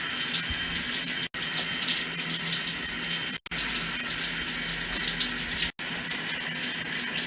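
Shower water spraying steadily as a pet parrot is bathed under it. The spray cuts out for an instant three times.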